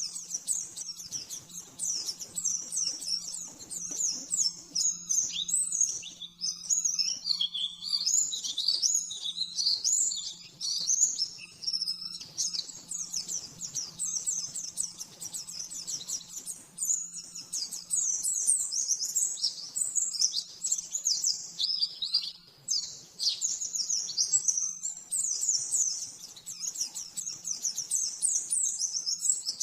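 Pleci (white-eye) singing a fast, nearly unbroken stream of high-pitched chirps and trills in the rapid-fire 'nembak' style, broken twice by brief pauses. A faint steady low hum runs underneath.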